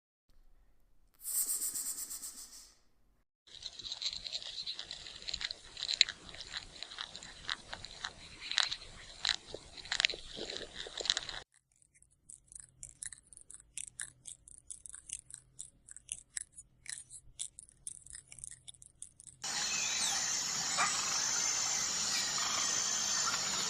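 Farm animals chewing and crunching feed, heard as irregular crunchy clicks in a few separately cut clips. Near the end a steadier hiss takes over.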